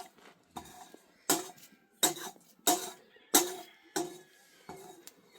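A metal utensil knocking repeatedly against a metal cooking pot, about eight strikes at an even pace of roughly one every two-thirds of a second, each with a brief metallic ring.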